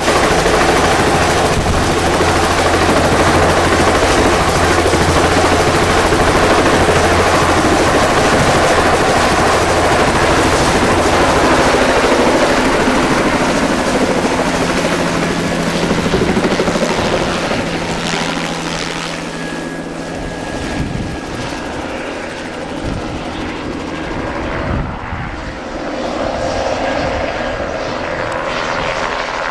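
Helicopter running loud and close with a steady thudding rotor drone, then lifting off and flying away, fading from about fourteen seconds in.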